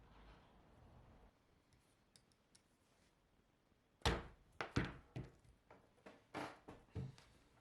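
A run of about seven sharp knocks and taps over about three seconds, starting about halfway in, after a faint, nearly quiet stretch.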